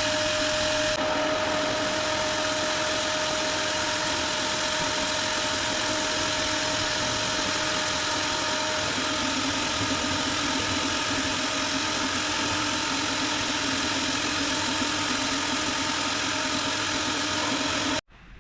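Power sander running steadily, sanding down cured body filler on a car's front wing; it cuts off sharply near the end.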